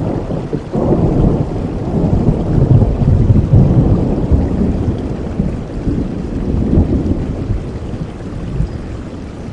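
Rolling thunder over steady rainfall: a low rumble swells about a second in, is loudest around three seconds, then slowly fades.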